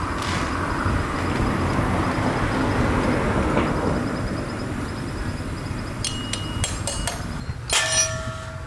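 A broad rushing noise, like a vehicle going by, swells over the first few seconds and fades, followed near the end by a handful of sharp metallic clinks with a short ring.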